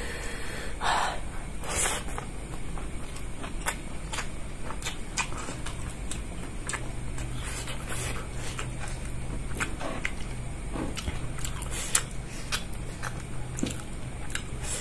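Close-up eating sounds: chewing, with irregular wet mouth clicks and smacks as a man eats rice and spicy instant noodles with his fingers, over a steady low hum.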